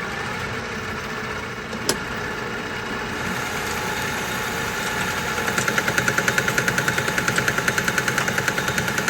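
Metal lathe running at about 600 RPM, boring out a hole in steel with a boring bar. There is a single click about two seconds in, and from about five and a half seconds in a rapid, even pulsing, roughly nine beats a second.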